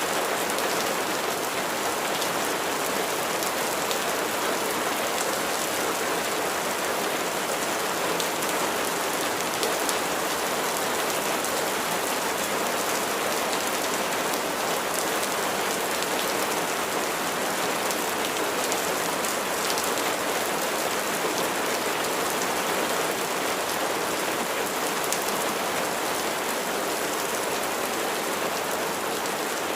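Steady rain falling, a dense even hiss with fine patter of individual drops striking a surface.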